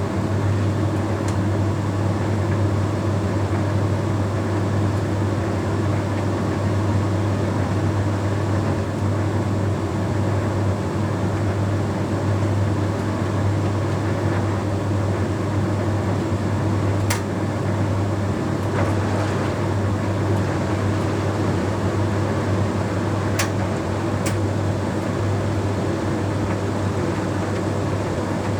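Bosch Series 6 heat pump tumble dryer running steadily, with a deep low hum from its machinery and the drum turning. A few sharp clicks sound about two-thirds of the way through.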